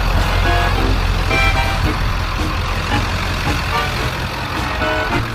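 A vehicle engine, likely the scrapping truck's, running with a steady low rumble that eases off near the end; short high notes are scattered over it.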